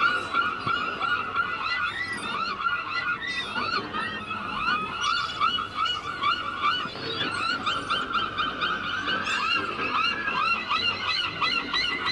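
A large flock of gulls calling over one another without pause: a dense chorus of many short, overlapping cries.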